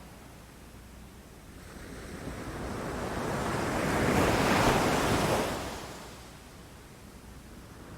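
Ocean waves breaking. One wave swells in over a couple of seconds, crashes at its loudest about four to five seconds in, then washes away, leaving a low surf hush.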